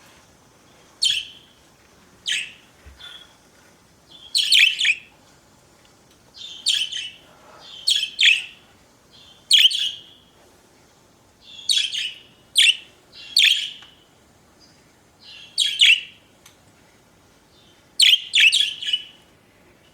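Pet budgerigars chirping in short, high calls every second or two, some coming in quick clusters of two or three.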